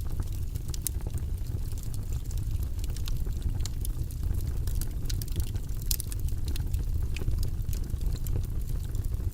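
Logs burning in a fireplace: a steady low rumble of flames with scattered sharp crackles and pops at irregular moments.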